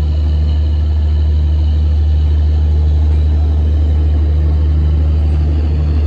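Loud, steady low drone of a standing train's machinery running, with a fainter hum above it that comes and goes.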